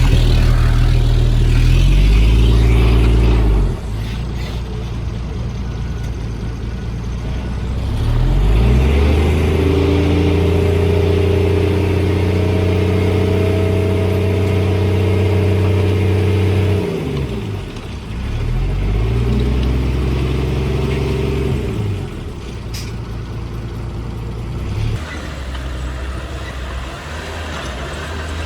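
Diesel engine of heavy earthmoving machinery running, revving up about a third of the way in and holding high revs. It drops back, revs briefly again, then settles to a lower steady run near the end.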